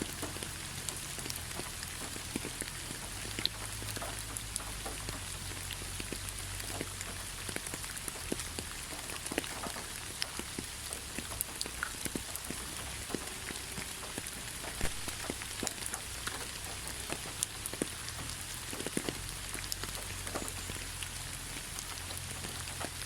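Steady rain, with many separate drops ticking sharply on a surface throughout.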